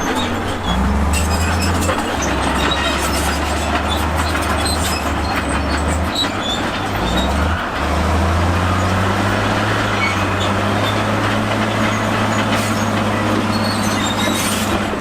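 Crawler bulldozer at work: its diesel engine running under load, the engine note shifting a few times as the load changes, over a continuous clatter and squeal of steel tracks and stone.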